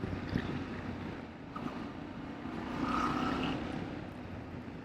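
Motorcycle engine running under way, heard from on board the bike; the engine note grows louder about halfway through, then eases off.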